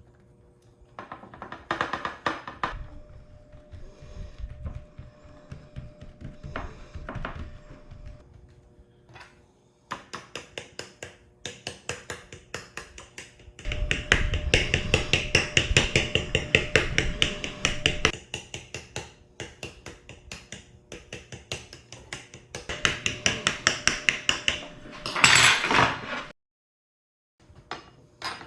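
Rapid, rhythmic clicking and knocking of kitchen utensils during food preparation, several strokes a second in runs, loudest and longest in the middle; the sound cuts out briefly near the end.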